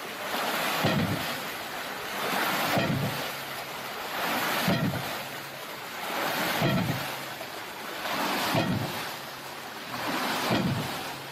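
Hydraulic ram pump cycling: a rush of spilling water and a low thump about every two seconds as the waste valve slams shut and the water hammer drives the pump.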